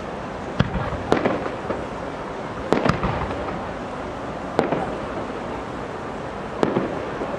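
Aerial fireworks shells bursting, five sharp bangs a second or two apart, each followed by a brief crackle and echo.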